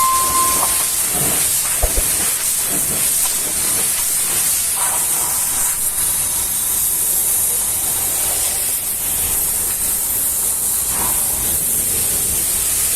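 Pressure washer jet spraying water onto a vehicle body in a steady, high hiss.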